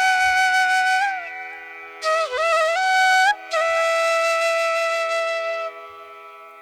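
Background flute music: the flute holds long notes that slide down and up between pitches, over a steady drone. The playing thins out in the middle and fades toward the end.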